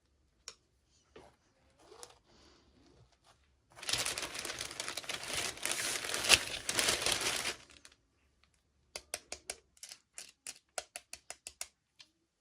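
Plastic packaging crinkling as it is handled and opened, lasting about four seconds, followed near the end by a quick run of sharp clicks.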